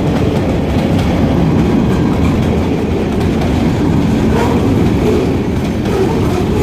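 Freight train boxcars and bulkhead flatcars rolling past close by: a steady, loud rumble of steel wheels on the rails.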